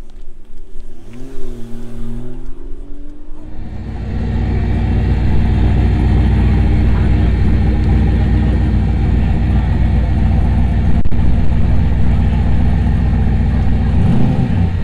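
Car engine running close by. A short rising engine note about a second in, then from about four seconds a loud, steady, low engine note as the car idles right beside.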